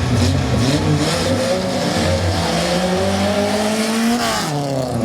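Drag-racing car accelerating hard down the strip, its engine note climbing steadily for about three seconds. Near the end it flares briefly and then falls away as the throttle is released.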